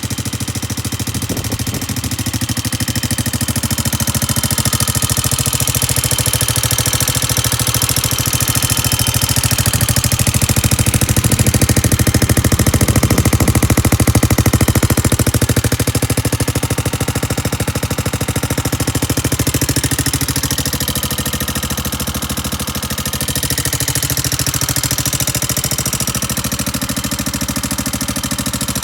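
Suzuki GrassTracker BigBoy's 250 cc single-cylinder four-stroke engine running at idle with an even firing pulse, getting a little louder around the middle.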